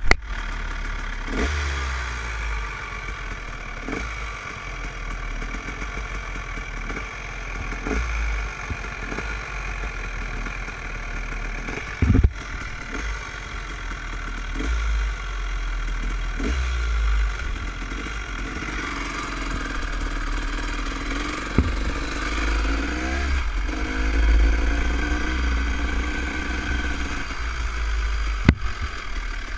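Dirt bike engine running at low to moderate speed, its pitch rising and falling as the throttle opens and closes, with a few sharp knocks from riding over rough ground.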